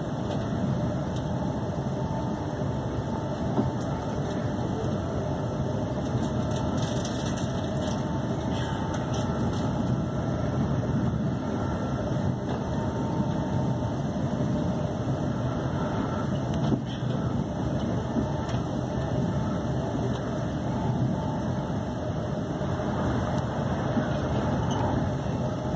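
Steady running noise of a Class 350 Desiro electric multiple unit at speed, heard inside the carriage: a constant rumble of wheels and running gear with faint steady tones and one brief knock about two-thirds of the way through.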